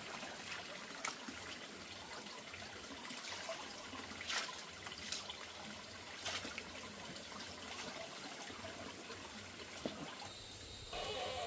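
Water trickling and splashing, with a few small knocks scattered through it and a short pitched call near the end.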